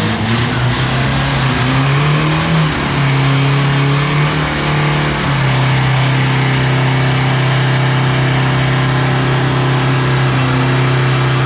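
Turbo-diesel drag-racing pickup's engine revving: the note climbs over the first few seconds, then from about five seconds in is held at a steady high rev.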